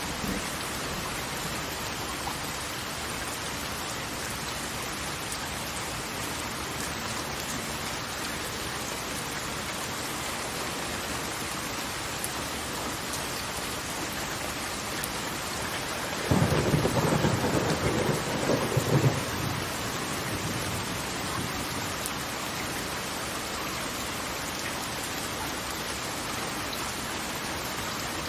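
Steady hiss of falling water. About two-thirds of the way through, a low rumble of thunder rises over it for about three seconds and then fades back into the hiss.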